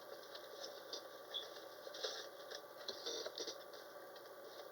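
Faint scattered clicks and short rustles of hands handling a small collectible piece and its packaging.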